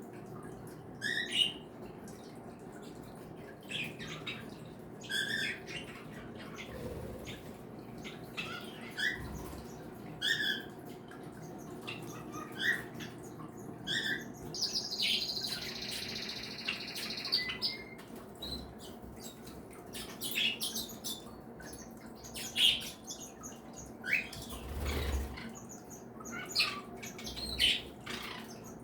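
Mixed flock of pet cage birds (budgies, cockatiels, Bourke's parakeets, canaries and Java sparrows) chirping and calling in short, scattered high notes, with one longer buzzy trill of about three seconds midway through.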